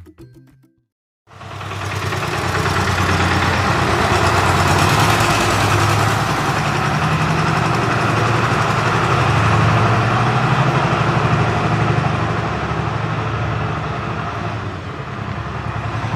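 Steady mechanical rumble like an idling engine, with a low hum and an even hiss, starting suddenly about a second in after the end of a short music clip.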